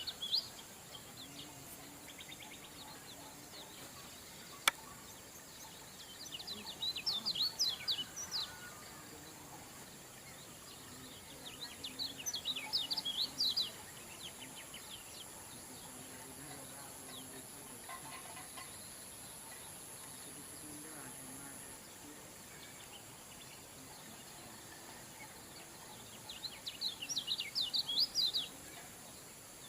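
A kecial kuning, a small white-eye songbird, singing in fast, twittering phrases of rapid high notes, each phrase about two to three seconds long, four times with pauses between. A steady faint high-pitched whine runs underneath, and there is one sharp click a little after four seconds in.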